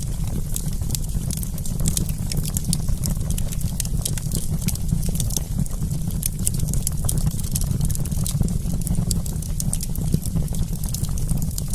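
Wood campfire crackling: many small irregular pops and snaps over a steady low rumble.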